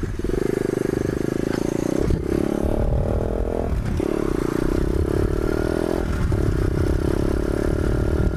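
Pit bike engine running under way, its note climbing in stretches with short dips about two, four and six seconds in.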